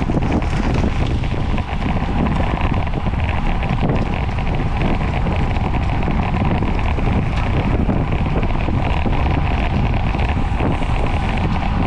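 Wind rushing steadily over the microphone of a camera riding with a racing bicycle at speed.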